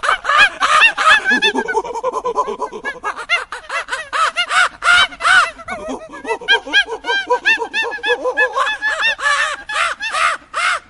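A flock of birds calling: many short, harsh calls overlapping in a dense, continuous chatter that cuts off abruptly at the end.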